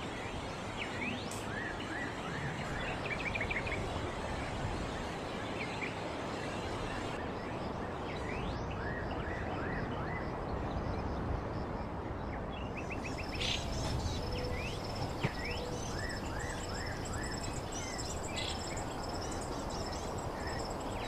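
Steady outdoor background noise with small birds chirping again and again in short rising notes; about halfway through, a high, steady insect trill starts and carries on.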